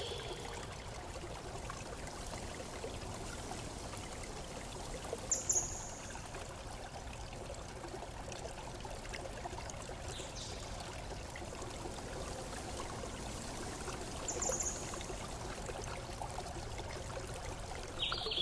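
Steady flowing water, an even rushing with no pauses, with a few brief high chirps about five and fourteen seconds in.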